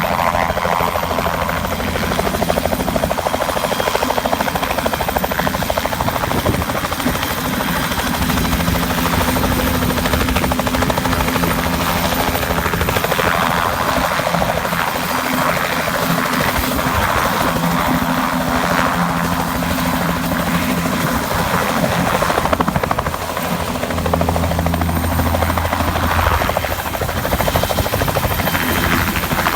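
Bell 206L LongRanger helicopter running close by, its rotor and single turboshaft engine making a steady, loud sound.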